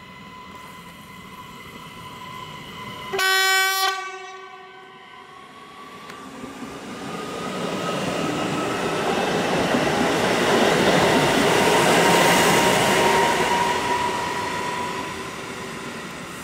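Newag Impuls electric multiple unit sounding one short, loud horn blast about three seconds in, then accelerating past with a swelling rush of wheels on rails and a whine that rises in pitch as it picks up speed, fading as it moves away near the end.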